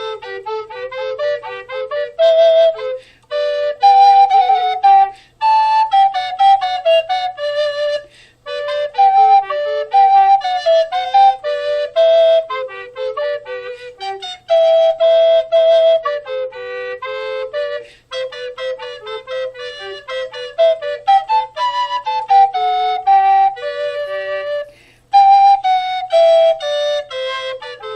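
Background music: a flute playing a lively melody of quick notes.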